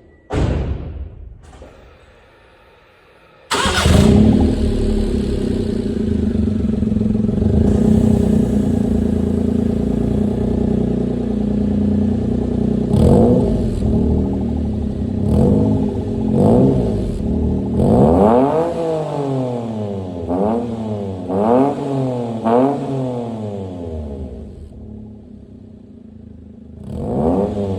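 Daihatsu Hijet Cargo's three-cylinder engine heard through a Wills Win aftermarket muffler with its baffle removed. A short sharp knock right at the start, then the engine starts about three and a half seconds in and idles steadily. It is then revved in a string of quick throttle blips, rising and falling in pitch, settles to a lower idle, and is revved once more near the end.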